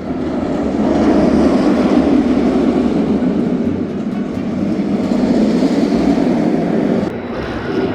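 Steady rumble of a roller coaster train running along its track, easing off about seven seconds in.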